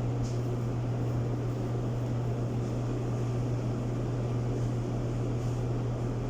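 Clothes dryer running steadily on test, a strong constant low hum from its motor with an even rumble from the turning drum, which now sits on a newly replaced housing bearing. Faint light ticks come now and then.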